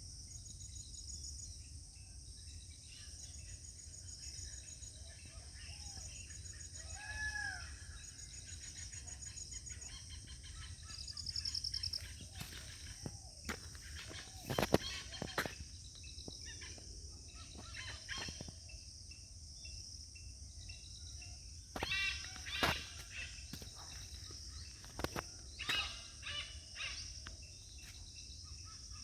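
Birds calling in scattered bouts, with sharp calls clustered about halfway through and again in the last third, over a steady high insect drone.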